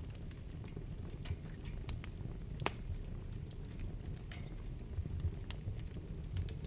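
Wood fire in a fireplace crackling, with irregular sharp pops over a low, steady rumble of burning. The sharpest pop comes about two and a half seconds in.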